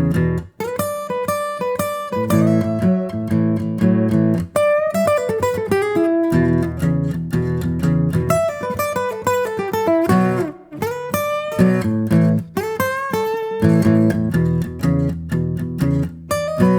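Acoustic guitar music with plucked notes and strummed chords, broken by a few brief pauses.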